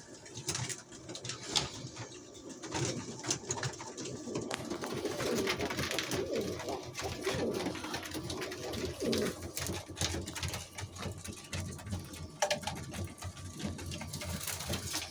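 Birds making low, wavering cooing calls, with scattered clicks and scratching sounds.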